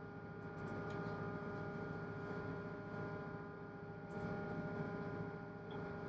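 Single-screw tugboat's 1000 PS main engine running steadily, heard from inside the boat as a low rumble with a constant droning hum, swelling slightly about a second in and again near four seconds.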